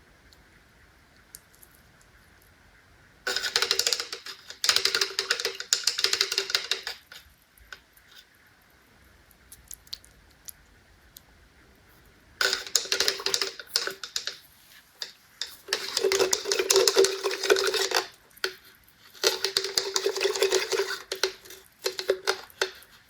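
Carbonated soda fizzing and crackling as it foams, in three bursts of a few seconds each made of dense tiny pops.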